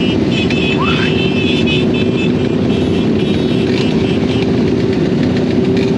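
Dirt bike riding at a steady speed: a steady motor hum over a constant rush of wind and tyre noise, with no change in speed. A short rising squeak sounds about a second in.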